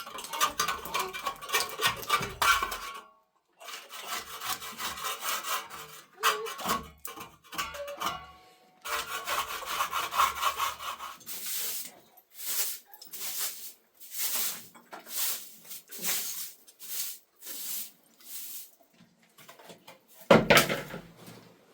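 A hand tool scraping and rasping on a hard surface, first in dense, uneven scraping. Near the middle it settles into an even rhythm of about one stroke a second, and it ends with a single loud knock.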